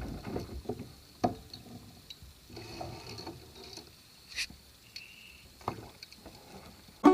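Scattered light knocks and clicks at irregular intervals, the sharpest about a second in and again past the middle.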